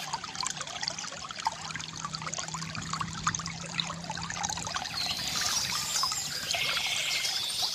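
Small stream trickling and splashing steadily, with birds singing high trilled phrases over it in the second half.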